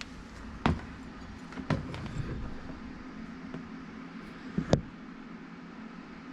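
A few sharp clicks and knocks of the chainsaw and tools being handled on the bench over a steady low hum, the loudest a double knock about three-quarters of the way through.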